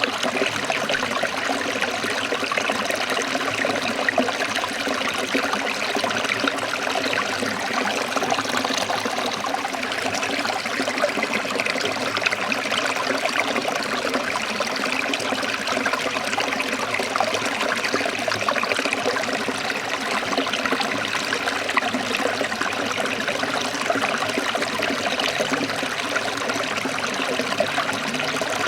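Forest stream trickling and splashing over rocks, a steady, unbroken rush of water.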